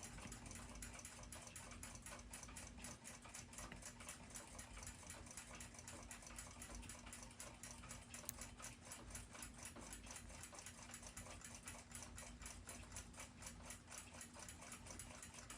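Faint, fast, even ticking of a mechanical clock, over a low steady hum.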